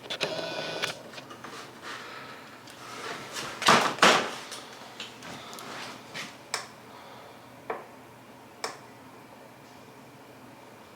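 Plastic clicks and clacks from an electronic pet door being worked, its flap and locking mechanism knocking. Two loud knocks come about four seconds in, and scattered single clicks follow.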